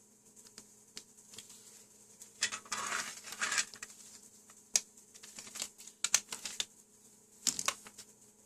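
Light clicks and taps of small hard objects being handled, with a short scraping rustle between about two and a half and three and a half seconds in, over a faint steady hum.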